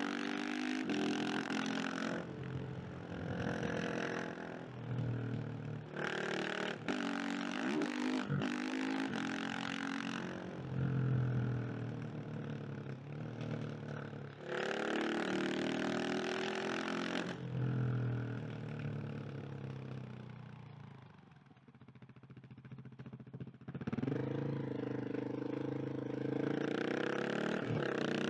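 KTM 690 SMC R's single-cylinder engine under way, revving up and easing off again and again through the gears. About two-thirds through it drops away for a few seconds off the throttle, then pulls hard again.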